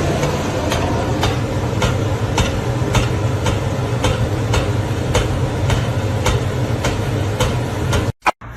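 A steady mechanical rumble, like a running engine or vehicle, with a sharp click about twice a second; it cuts off suddenly near the end.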